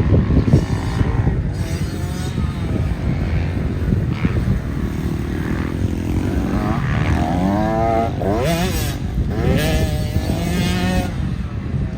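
Dirt bike engine revving and easing off while being ridden. Its pitch climbs and drops several times in the second half, over a steady low rumble.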